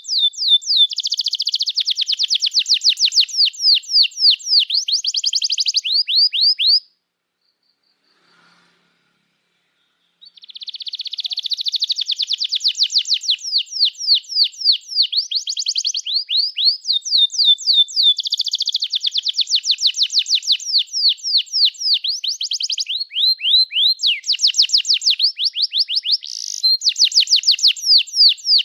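Domestic canary singing long, fast trills of rapidly repeated high chirping notes. The song breaks off for about three seconds near the start, then runs on.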